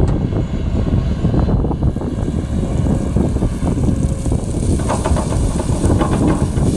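Heavy diesel construction machinery at work, an excavator with a dump truck: a steady low engine drone with scattered metallic clanks and rattles, busier in the last two seconds.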